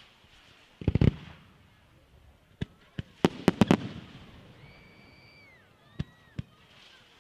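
Fireworks display going off: sharp cracks and bangs, a quick cluster about a second in, a rapid volley around the middle and two lone bangs near the end. In between, a high whistling tone is held for about a second and then dips in pitch.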